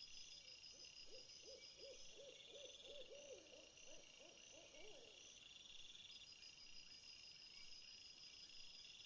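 Faint nature ambience: a series of short hoots that quicken and drop in pitch near the end, over the steady pulsing chirr of insects.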